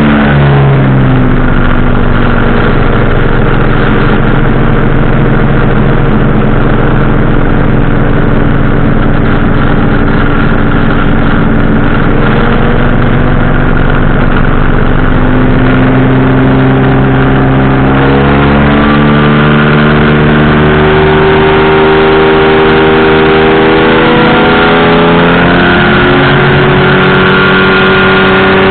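Powered parachute's engine and propeller running loud: the engine is throttled back right at the start, holds a steady speed, then is opened up in steps about two-thirds through and again near the end.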